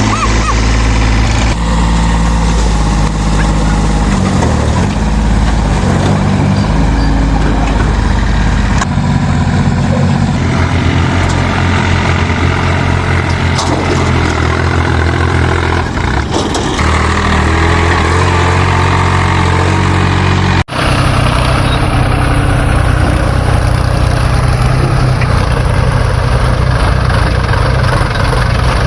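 Heavy diesel engines of a backhoe loader and tractor running, their note rising and falling with the load. About two-thirds of the way through the sound breaks off for an instant and comes back with a steadier engine note.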